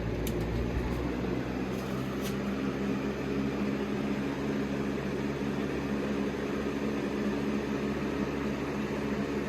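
Electric box fan running steadily on medium speed: a motor hum under the rush of moving air, with a couple of faint ticks near the start.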